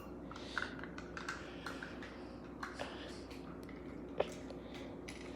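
Light scattered clicks and taps of small plastic toy cars being handled against cups, with one sharper click about four seconds in.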